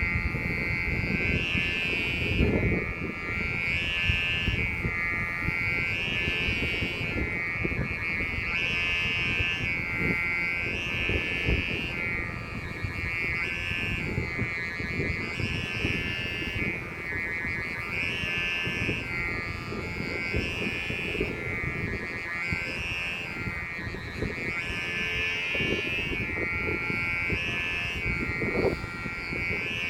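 Strong wind buffeting the microphone, a gusty low rumble, under a steady high-pitched buzz that swells and fades about once a second.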